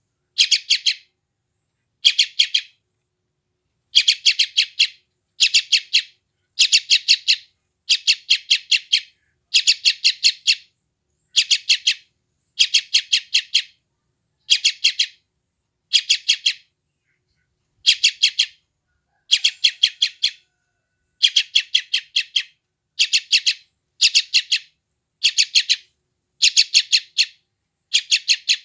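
A yellow-vented bulbul (trucukan) chick calling in short bursts of several rapid, high notes, about one burst a second, with a brief pause about midway: the insistent calls of a hungry nestling.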